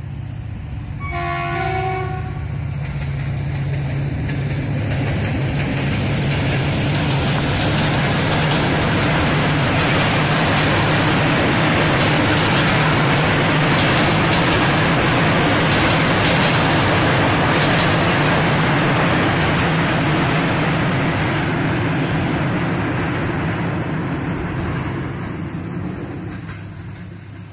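Passenger train hauled by a GM diesel locomotive: a short horn blast about a second in, then the train passes, the engine's low hum and the rumble of wheels on rails swelling to a loud peak midway and fading near the end.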